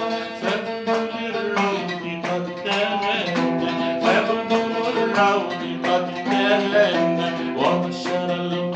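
Instrumental interlude of an Arabic devotional song: a plucked string instrument plays a melody over held notes.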